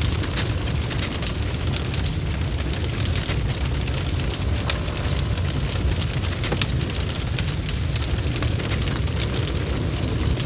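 Fire crackling and popping, with many sharp irregular snaps over a steady low rumble of the flames.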